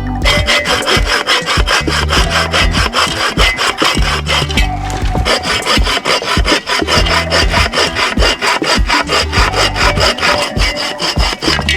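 A hand saw cutting wood in quick, even rasping strokes, with a short pause about five seconds in, over background music with a steady beat.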